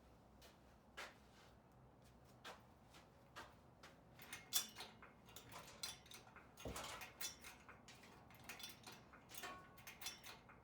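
Quiet, irregular light clicks and knocks from an engine hoist and its chain as the hoist is worked to ease the engine out, with one louder knock about four and a half seconds in.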